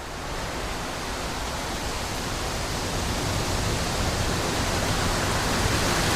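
A steady, even hiss across the whole pitch range with no distinct events, growing slowly louder.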